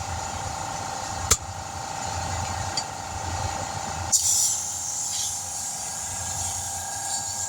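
Compressed air hissing from about four seconds in, air escaping where a rubber seal has popped out of place, over a steady machine hum, with one sharp click about a second in.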